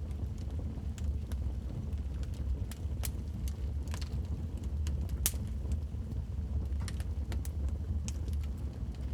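Wood fire in a fireplace crackling, with irregular sharp pops and snaps over a low steady rumble of the flames; one louder pop about five seconds in.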